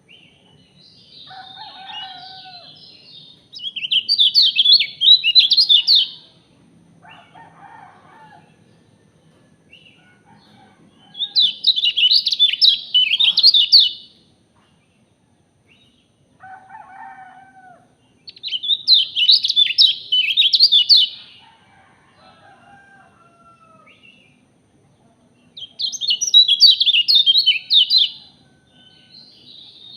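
Bird song played for caged birds: four loud, rapid, chattering high-pitched phrases, each about two and a half seconds long and roughly seven seconds apart, with quieter, lower falling calls between them.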